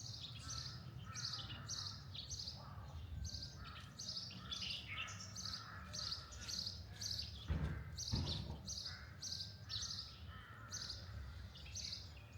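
Small birds chirping and singing in quick repeated high chirps, about two or three a second, over a low steady outdoor rumble. Two dull thumps come about seven and a half and eight seconds in.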